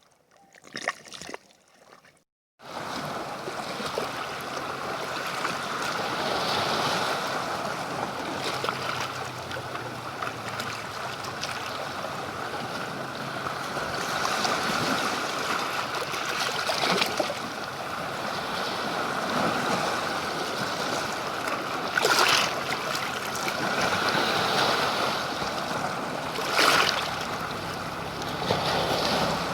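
Steady rushing noise of wind and water, starting abruptly about two and a half seconds in after near silence, with two brief louder surges near the end.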